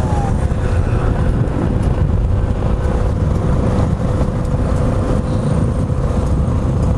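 Motorcycle riding along at a steady speed, its engine holding an even pitch under a heavy rumble of wind buffeting the microphone.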